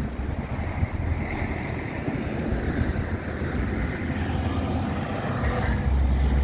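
Steady street traffic noise, with a low wind rumble on the microphone.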